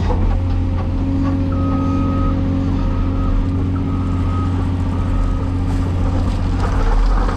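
Cat 336E excavator's diesel engine running steadily. A high beeping tone sounds on and off for a few seconds in the middle.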